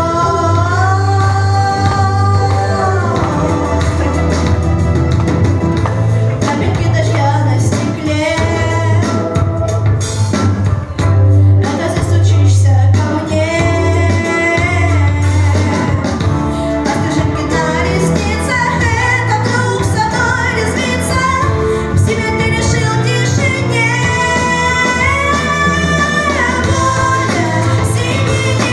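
A pop song played over a backing track with a steady bass line, with a sung melody over it.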